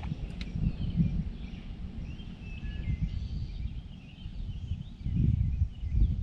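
Wind buffeting the microphone as a low rumble that swells near the end, with faint bird calls and chirps over it.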